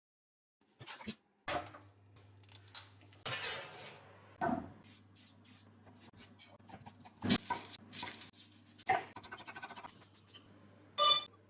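Kitchen clatter: utensils and dishes knocking and clinking in a string of separate strikes, over a low steady hum that starts about a second and a half in.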